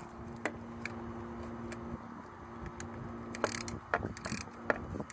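Ratchet wrench clicking in short spells as it tightens the bolt of a new drive-belt pulley, with scattered metal clicks and a faint steady hum beneath.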